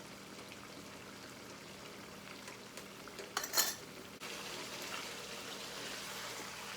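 Chicken karahi sizzling in the cooking pan, with a brief clatter of a utensil against the pan about three and a half seconds in; just after it the sizzle becomes louder and stays steady.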